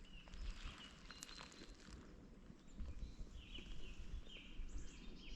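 Footsteps in snow. In the second half there is a short, high squeaky crunch about every half second.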